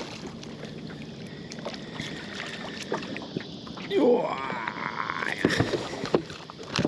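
Small clicks and knocks of handling gear in a small boat while a hooked flathead is being brought in, with one short rising-then-falling vocal sound about four seconds in.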